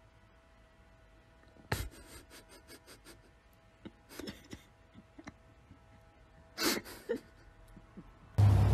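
A dog gnawing on a white wooden stair banister spindle: a run of quick clicks and scrapes of teeth on wood, with two short breathy sounds a few seconds later. A loud rushing noise cuts in just before the end.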